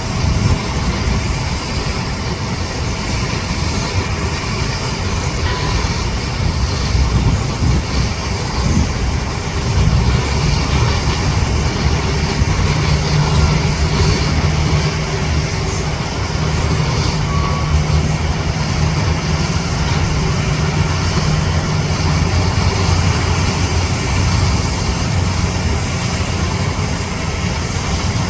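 Airbus A380's four jet engines running with a steady rumble and hiss. A low hum comes in about twelve seconds in and holds for around ten seconds.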